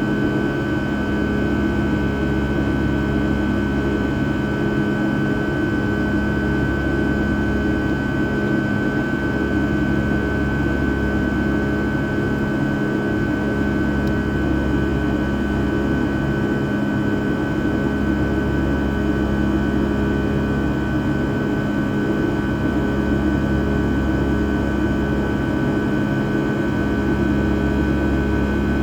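Rolls-Royce RB211-535E4B turbofans of a Boeing 757-200 running steadily in flight, heard from inside the passenger cabin as a constant drone with several held tones.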